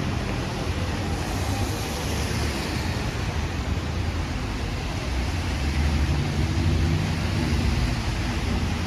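Road traffic on a wet city street: the engine of a passing vehicle rises about six to seven seconds in, then eases, over a steady hiss of rain and tyres on the wet road.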